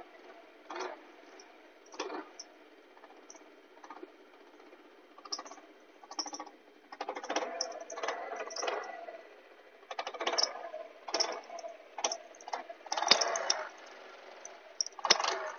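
Squeaking and whistling from a 139QMB 50 cc four-stroke scooter engine, coming in irregular bursts over a steady hum, with a few sharp clicks near the end. The squeal is the fault being shown, in an engine that also idles unevenly and loses power.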